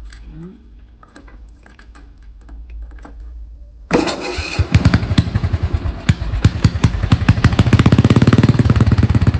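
Small engine of a homemade pulling tractor, started on its newly fitted choke: a few clicks and handling noises, then about four seconds in the engine catches at once and runs with a rapid, even firing beat that quickens and settles into a fast idle.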